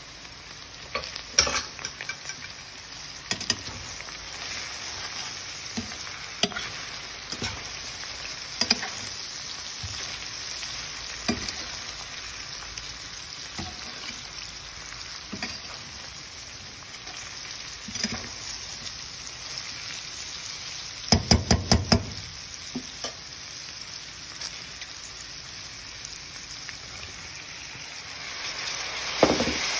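Okra sizzling as it stir-fries in oil in a metal pan, with the stirring utensil knocking and scraping against the pan every second or two and a quick run of knocks about two-thirds of the way in. The sizzling gets louder near the end.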